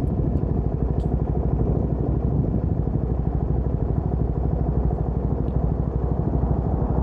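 CFMoto 300NK's single-cylinder engine idling steadily at a standstill, with a couple of faint clicks.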